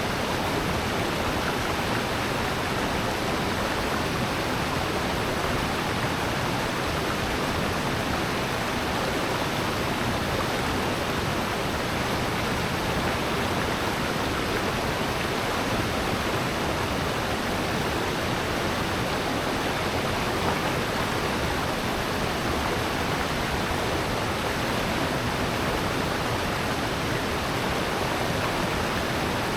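Steady rush of falling and flowing water from a valley waterfall and stream, even and unbroken.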